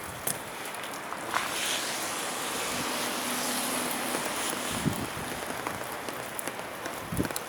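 Electric freight train hauled by an EF510 locomotive pulling out, heard as a steady rushing noise. It swells for a few seconds, with a faint hum in the middle, and a few short knocks come through.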